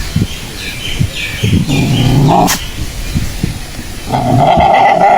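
A dog barking and vocalising, in short bursts.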